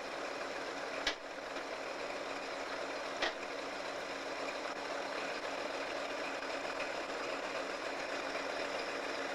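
USAF Engine 4040's diesel locomotive engine running steadily, with two sharp knocks about a second and about three seconds in.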